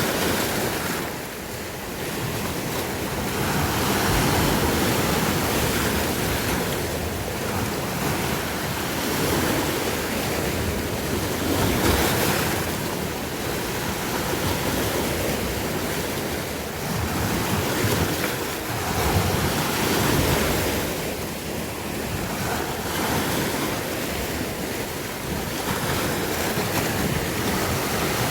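Sea waves breaking and washing on a shore, the surf swelling and ebbing every few seconds, with wind buffeting the microphone.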